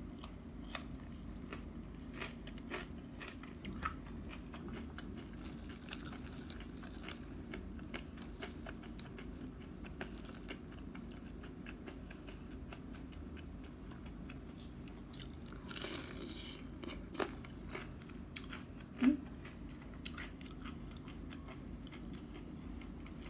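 A person biting and chewing food, with scattered small clicks from eating utensils, including a plastic spoon against a plastic food container.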